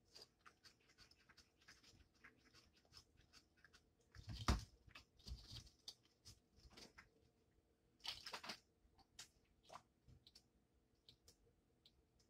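Faint chewing and wet mouth sounds of someone eating a taco, with a few louder mouth noises about four and a half and eight seconds in.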